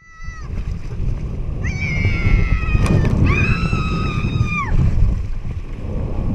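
Steady low rumbling noise of wind buffeting the microphone over moving water, with three high-pitched held cries: a short falling one at the start, then two of about a second each, the last gliding up as it begins and down as it ends.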